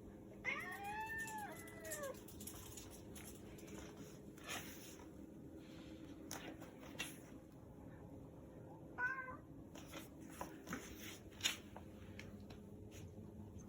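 Persian cat meowing: one long meow that rises and falls in pitch, starting about half a second in, and a shorter meow about nine seconds in, with a few light clicks and knocks in between.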